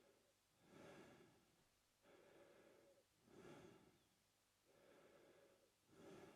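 A man breathing slowly and steadily through his mouth, faint and close. Shorter, louder breaths alternate with longer, softer ones, about one full breath in and out every two and a half seconds.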